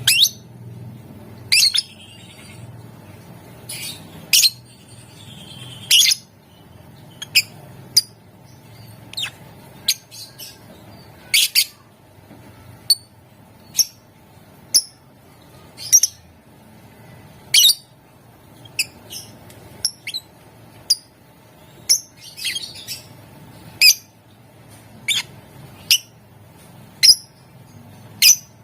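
Lovebird giving short, sharp, high-pitched calls, one every second or so at uneven spacing.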